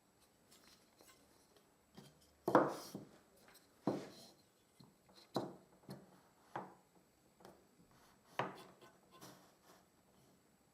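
Handling knocks and clatters of wooden pieces being picked up and set down, about half a dozen irregular sharp knocks with the loudest about two and a half seconds in. The jigsaw is not running.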